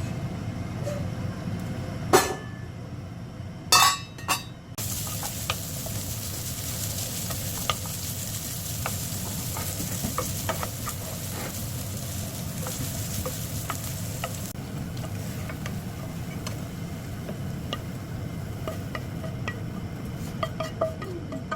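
Food frying and sizzling in a pan as it is stirred, with a utensil clicking and scraping against the pan. A couple of loud knocks come in the first few seconds, then the sizzle grows loud about five seconds in and eases off after about fifteen seconds, over a steady low hum.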